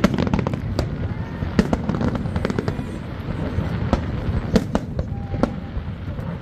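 Fireworks display: aerial shells bursting in irregular succession, sharp bangs and cracks coming about two a second over a steady low background.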